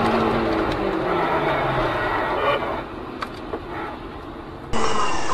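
Vehicle running noise picked up by a dashcam: a steady road drone with engine tones sliding down in pitch over the first few seconds, then quieter with a few light clicks. About four and a half seconds in the sound cuts abruptly to louder, steady traffic noise.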